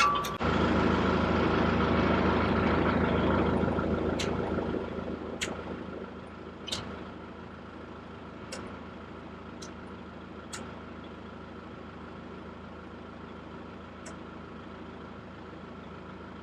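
Kubota tractor's diesel engine running loud for the first few seconds, then dropping over a couple of seconds to a steady idle, with a few sharp ticks now and then.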